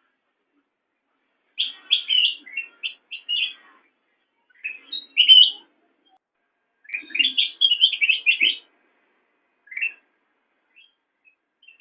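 Kutilang emas bulbul singing in short bursts of rapid, chirpy notes. There are four phrases, each lasting about one to two seconds, then a single short note and faint scattered chirps near the end.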